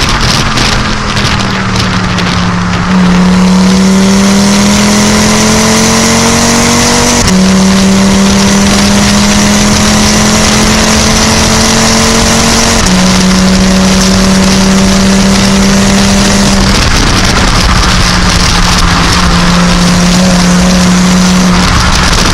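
Skoda Yeti with a 2.5 TFSI turbocharged five-cylinder engine and Milltek exhaust accelerating hard through the gears. The engine note climbs steadily in each gear and drops at each of about four upshifts, a few seconds apart.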